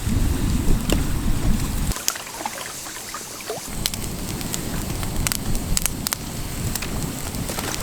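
Strong wind buffeting the microphone in gusts as a rough low rumble, easing for a moment about two seconds in and then returning. Scattered sharp crackles and ticks sound over it.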